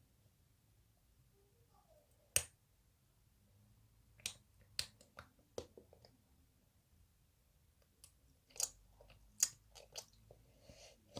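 Close-up eating sounds of tangerine tanghulu: a string of sharp cracks and clicks as the hard candied sugar shell is bitten and chewed. The loudest crack comes about two seconds in, with clusters of smaller crunches near the middle and towards the end.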